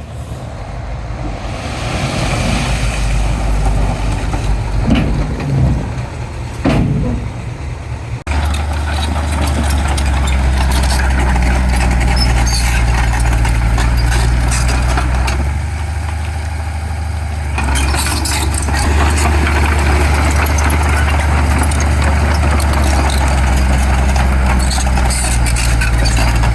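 Heavy diesel earthmoving machinery running, with a few knocks in the first part. About a third of the way in it changes abruptly to a steady, deep engine drone.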